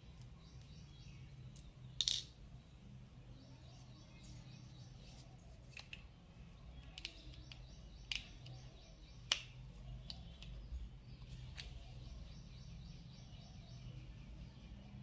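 Faint bird chirps and short high trills over a steady low hum, with a few sharper single chirps standing out.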